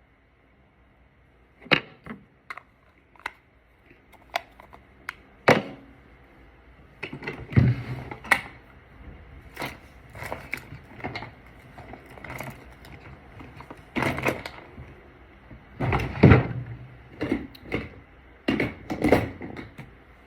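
Makeup products being handled: irregular clicks, taps and knocks of cases and containers being picked up, opened, closed and set down, busiest in the second half.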